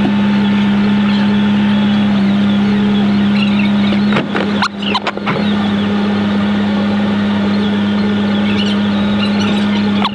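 A Jeep's engine, sped up sixfold by time-lapse playback into a steady high buzzing drone. About four seconds in the drone breaks up for a moment, with a few sharp knocks.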